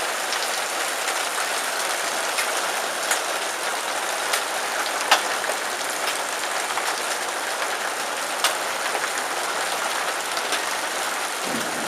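Heavy rain pouring steadily on a metal porch roof, a dense hiss. A few sharp ticks of single hard impacts stand out, about four over the stretch.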